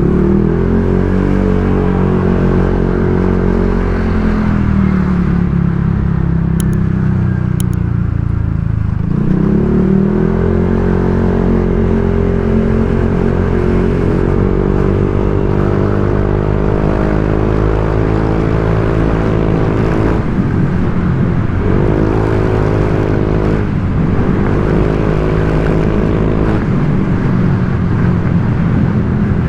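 Honda Vario 125 scooter's single-cylinder engine running through an aftermarket 'standard racing' exhaust while being ridden, with a steady, bassy note. The pitch drops and climbs back as the throttle is eased off and reopened about nine seconds in, and again a few times past twenty seconds.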